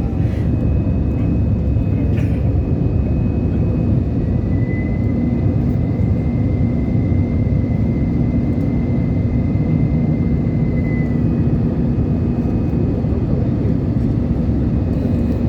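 Airliner cabin noise after takeoff: a steady low rumble of the engines and airflow, with a faint thin tone held from about four to eleven seconds in.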